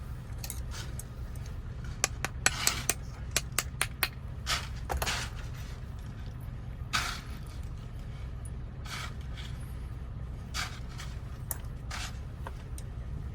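Small metal clicks and scrapes of a Toyota door lock cylinder's parts being handled as its cap is fitted on: a quick run of clicks a few seconds in, then scattered single clicks over a steady low hum.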